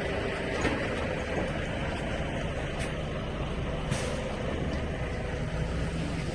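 A vehicle engine running steadily with a low rumble, with a few faint clicks over it.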